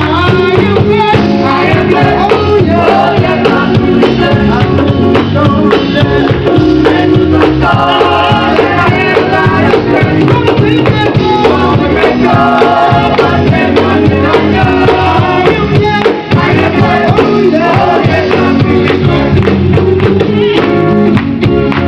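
Live gospel group singing with full band accompaniment, voices carrying the melody over steady drums and bass, with a tambourine-like jingle.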